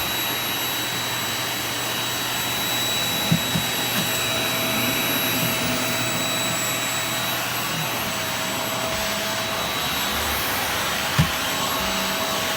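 Vacuum cleaner running steadily, a constant rushing noise with a high whine over it. A few short knocks come through, about three seconds in and again near the end.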